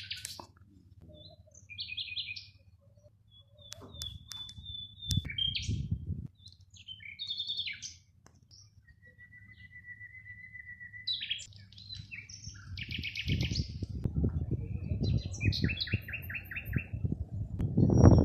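Songbirds singing: a string of short, fast trills, chirps and whistled phrases, with one long steady whistle about halfway through. A low rumble comes and goes under the song and grows louder near the end.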